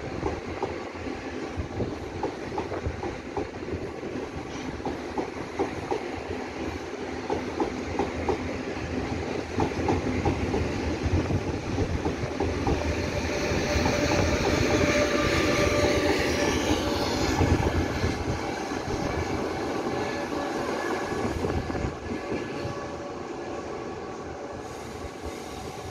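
Taiwan Railway Tze-Chiang express train pulling out of the station, its passenger cars rolling past with the clickety-clack of wheels over rail joints. It grows louder about halfway through, then eases off as the train draws away.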